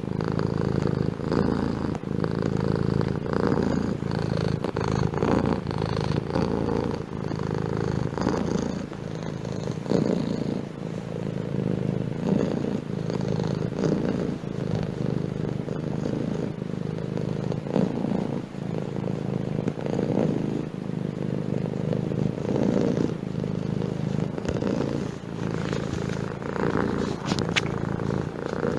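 Domestic cat purring continuously, the purr swelling and easing in a steady rhythm with each breath.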